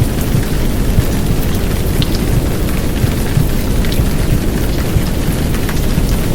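Heavy downpour of rain, a steady dense hiss with scattered drop sounds, layered over a loud low rumble of simulated womb sound used to soothe a baby to sleep.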